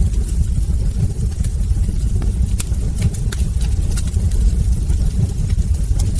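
Wood fire burning in a fireplace: a steady low rumble of flames with frequent sharp crackles and pops of burning logs scattered throughout.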